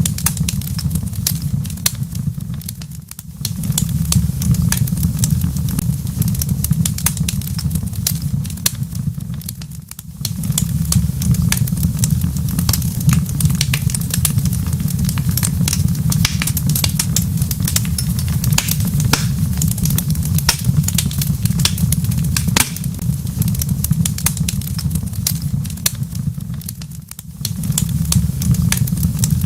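Wood fire crackling in a fireplace: dense sharp pops and snaps over a steady low rumble. The rumble dips briefly three times.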